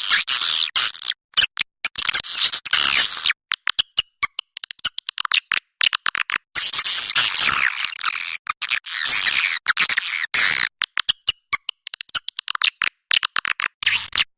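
A flock of swallows twittering: dense, high chirping calls in bursts that start and stop abruptly, as in a looped lure-call recording.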